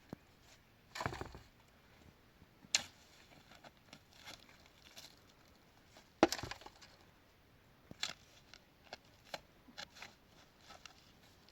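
Irregular knocks and clatters of objects being handled, a few sharp strikes among softer taps, the loudest about six seconds in.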